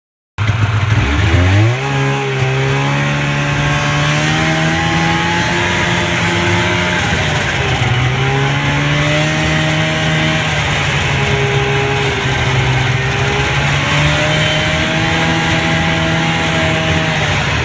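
Polaris Indy Lite snowmobile's two-stroke engine running under throttle on a trail ride. It cuts in suddenly, climbs in pitch over the first couple of seconds, then holds a fairly steady pitch with a few brief dips and rises.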